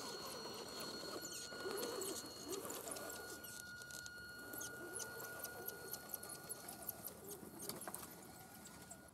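Radio-controlled scale 4x4 truck (Axial SCX10) driving: a steady high electric motor whine with a fluttering mid-range drone and many small clicks and crackles from the tyres and drivetrain on rough ground. The whine stops near the end.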